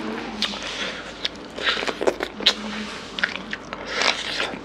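Close-miked biting and chewing of spicy mutton curry eaten by hand: irregular wet mouth clicks, smacks and crunches.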